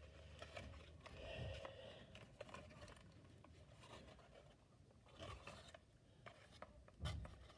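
Faint scraping and rubbing of cardboard and tape being handled and pressed down, with a few light clicks and a soft bump near the end.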